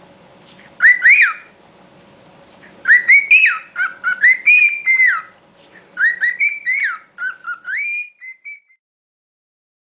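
Cockatiel whistling: short, rising-and-falling whistled notes in three bursts of phrases, the last trailing off near the end.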